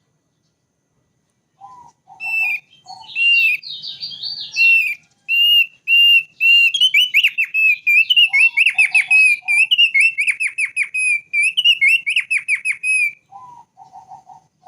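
Thick-billed white-eye singing. After a short silence it gives a long phrase of clear whistled notes that speeds into fast trilled runs, with short lower notes at the start and again near the end.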